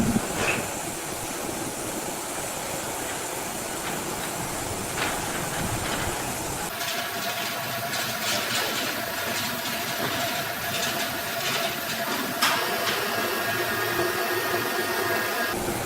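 Sawmill machinery running steadily. About seven seconds in, the sound changes abruptly to a steady whine with a high rasping hiss, and a sharp knock comes near the end.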